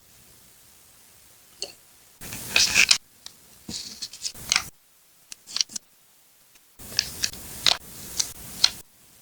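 Scissors cutting paper for a collage: crisp snips and paper rustle in two busy stretches, about two seconds in and again about seven seconds in, with a quiet gap between.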